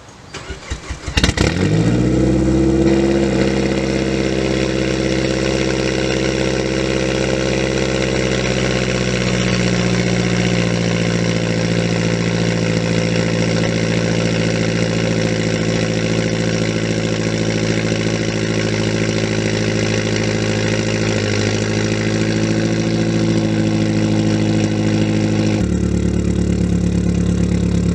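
Mazdaspeed 6's turbocharged 2.3-litre four-cylinder cranking briefly and catching about a second and a half in, then idling steadily through an aftermarket exhaust with a 3-inch downpipe and 2.5-inch midpipe. This is a warm start. The idle is slightly raised just after it catches, and the tone changes abruptly near the end.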